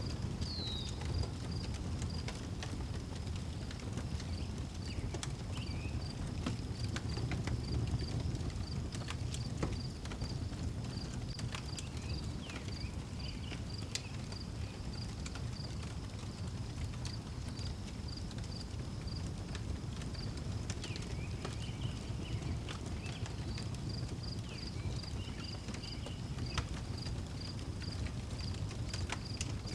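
Outdoor wood fire crackling with scattered sharp pops over a low steady rumble, while a cricket chirps in an even, unbroken pulse and birds give a few short calls.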